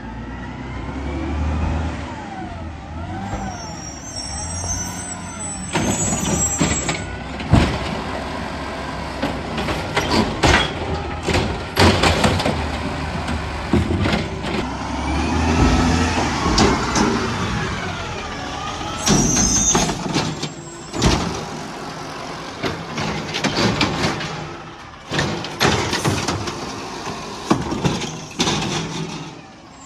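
Garbage truck at work: the diesel engine revs and a whine rises and falls, with repeated bangs and clatter and a couple of brief high squeals.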